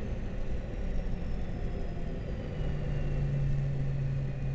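Cockpit noise of a Dassault Falcon 20 jet on final approach: a steady rumble of airflow and engines, with a faint high engine whine sliding slowly down in pitch. A low hum grows louder about halfway through.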